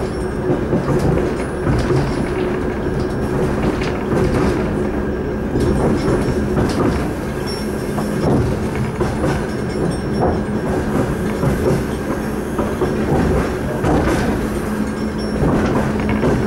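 Suburban passenger train running at speed, heard from inside the carriage: a steady rumble of wheels on rails with a steady low hum and wheels clicking over rail joints.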